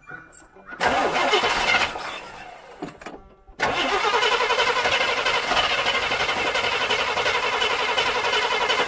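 Small-block Chevy 350 V8 being started after being primed with gas: it fires about a second in, runs briefly and dies away, then catches again at about three and a half seconds and keeps running steadily.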